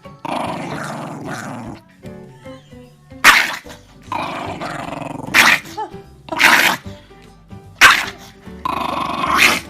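A dog growling, breaking into a series of sharp barks or snarls, one every second or so, over background music.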